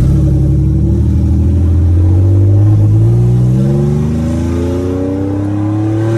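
Nissan VR30DDTT twin-turbo V6 running with no exhaust fitted, accelerating hard in one gear. The engine note is loud and rises steadily in pitch throughout.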